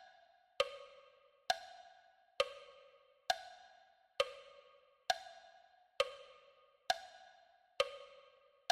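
Steady count-in beat on a practice track: a bright pitched tick about every 0.9 seconds, nine times, each ringing briefly and fading before the next.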